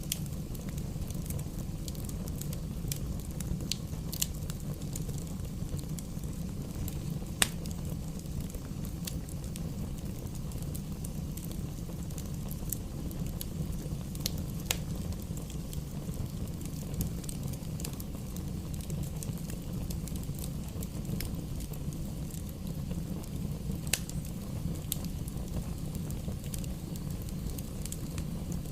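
Wood bonfire burning with a steady low rumble and scattered sharp crackles and pops, the loudest pop about seven seconds in.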